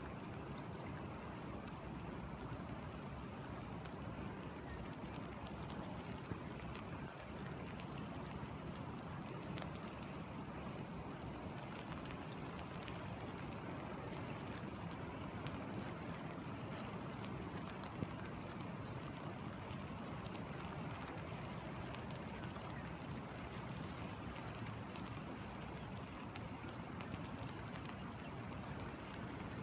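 Steady water noise with many small scattered ticks and drips over it.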